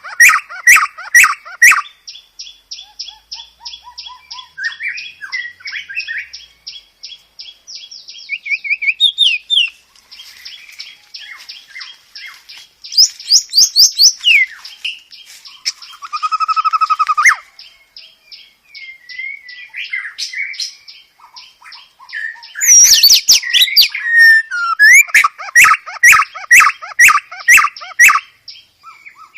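Songbird song, varied and loud: several runs of rapid repeated notes, long high fast trills, and a short whistled phrase about halfway through, ending in a loud burst of quick notes.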